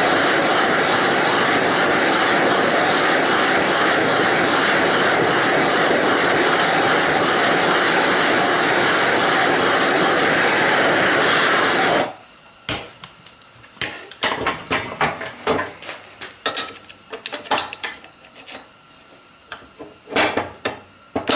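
Gas torch running with a steady roar, heating the stuck fan hub on a forge blower's shaft, then shut off suddenly about twelve seconds in. Then a string of light metal clinks and taps as the blower parts are handled.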